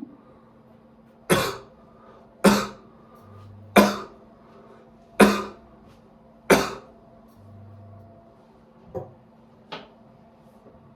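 A person coughing, five loud single coughs about a second and a quarter apart, followed by two fainter, shorter sounds.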